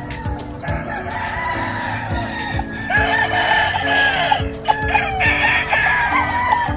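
Several gamefowl roosters crowing over one another, with clucking among them, over background music with a beat.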